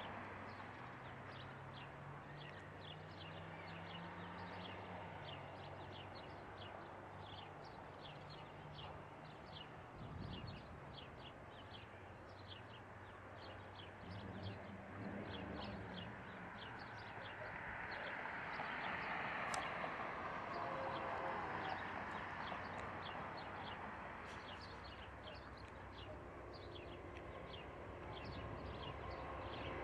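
A bird chirping in rapid, repeated short notes over the low rumble of an approaching Union Pacific diesel freight train, which grows louder near the end.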